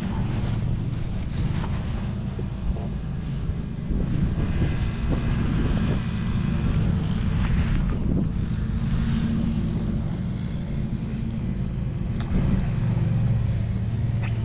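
Steady engine drone with wind rushing on the microphone over it.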